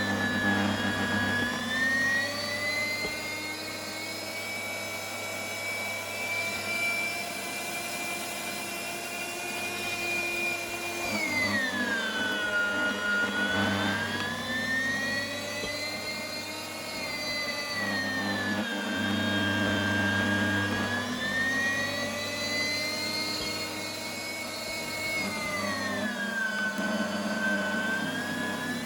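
Electric meat grinder motor running with a steady whine whose pitch sags and recovers about four times as it slows under the load of Snickers bars being ground.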